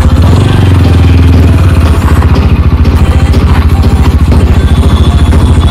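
TVS Apache RTR 160 4V's single-cylinder engine idling loud and steady, its exhaust beat an even, rapid pulse, with a slight swell about half a second in.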